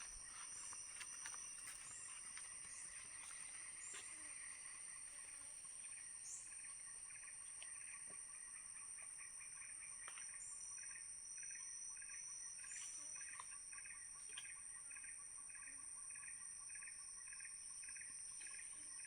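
Faint forest ambience: a steady high-pitched insect drone, a rhythmic insect chirping repeating about twice a second from about six seconds in, and a few short bird chirps.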